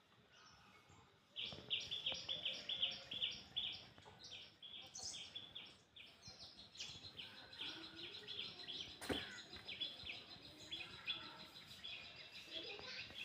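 Birds chirping: a rapid run of short, high chirps starting about a second in and carrying on, with a single sharp click about nine seconds in.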